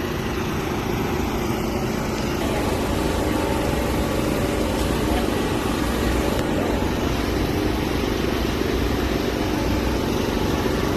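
A steady mechanical hum of an engine running, with a few held tones in it and no change in level.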